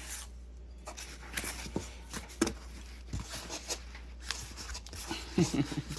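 Scattered light clicks and soft rustles of a package being handled and opened by hand.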